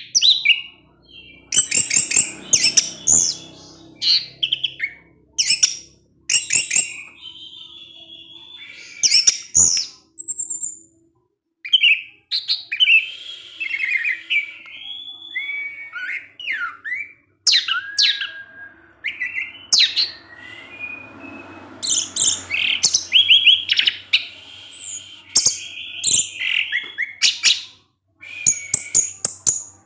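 Orange-headed thrush singing: loud, quick phrases of sharp high notes and slurred whistles, broken by short pauses.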